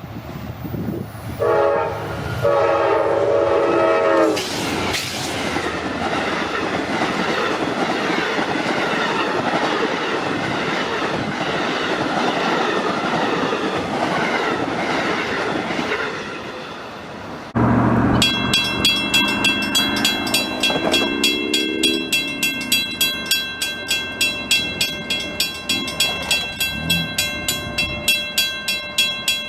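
Train horn sounding a chord for a couple of seconds, followed by the steady rumble and rail noise of a passing train. After an abrupt cut, a bell-like ringing repeats about twice a second.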